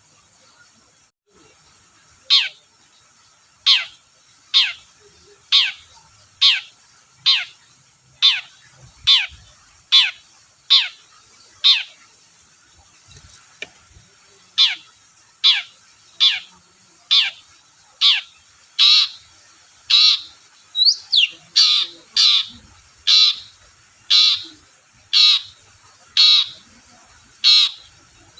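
Long-tailed shrike (cendet) calling in a long series of short, harsh notes, each sweeping quickly down in pitch, about one a second. After a short break partway through, the notes come faster and closer together toward the end.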